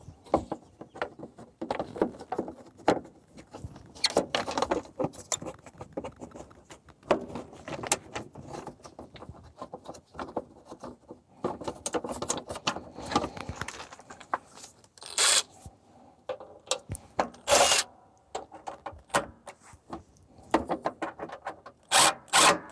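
Irregular clicks, knocks and rubbing of hands and a tool fitting and fastening a plastic side shield onto a lawn tractor, with a few louder clatters along the way.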